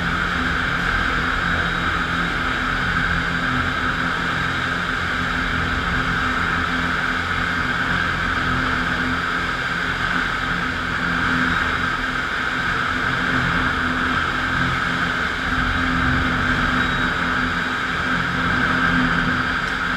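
FastPrep concrete floor grinder running steadily, its electric motor humming under the noise of diamond grinding plates on concrete.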